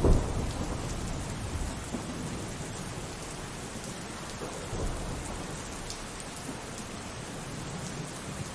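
Thunderstorm: steady rainfall with a loud clap of thunder right at the start that rumbles away over a couple of seconds, and a softer roll of thunder about five seconds in.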